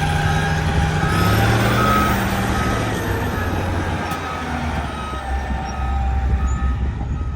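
Heavy diesel machinery, likely a road roller, running with its reversing alarm beeping about twice a second. The engine note rises a little over a second in and settles back down around the middle.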